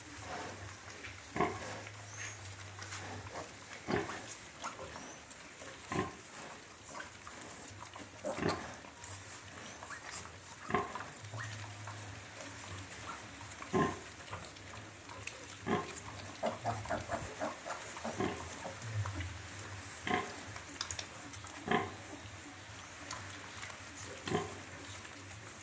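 Short animal calls repeating every second or two, sometimes in quick runs, over a low steady hum.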